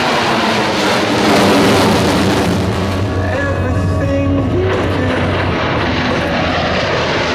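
Aircraft engine noise, loud and steady, with a low hum and pitched tones that shift up and down.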